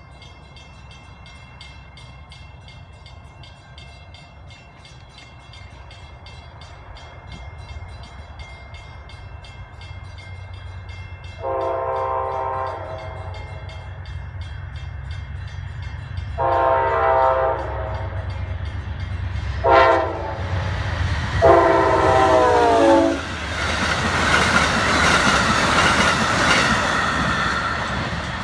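Amtrak passenger train approaching a grade crossing and sounding its horn in the crossing signal: long, long, short, long. The locomotive and cars then run past, with the rumble giving way to a loud rush of wheel-on-rail noise.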